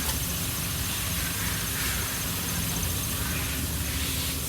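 Mitsubishi Outlander engine running steadily, with a constant hiss over its low hum.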